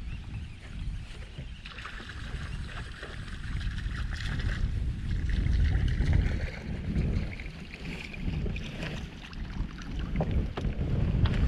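Gusty wind buffeting the microphone with an uneven low rumble, and a higher hiss of wind or water from about two seconds in until about nine seconds.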